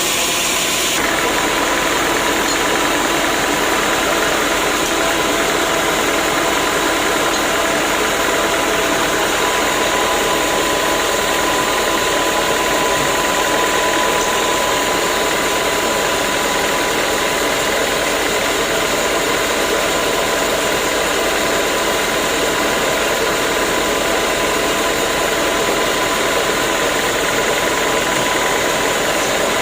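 Sawmill machinery running steadily: a loud, even mechanical noise with a faint steady whine, changing about a second in.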